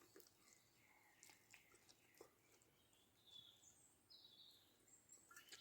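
Near silence: quiet outdoor night ambience with a few faint, short, high chirps.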